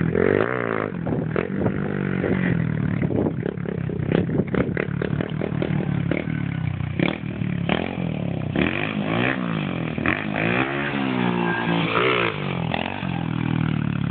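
Pit bike engine revving up and dropping back again and again as the bike is ridden, its pitch sweeping up and down. There are a few short clattering knocks about four to five seconds in.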